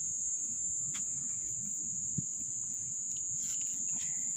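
Steady high-pitched chorus of crickets singing without a break, with a soft low knock about two seconds in.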